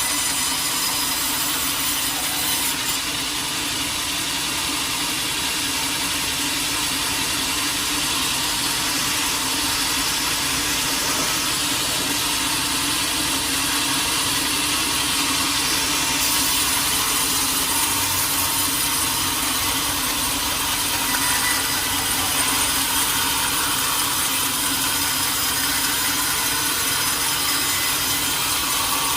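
Sawmill saw cutting lengthwise through a large teak log, a steady, unbroken cutting sound.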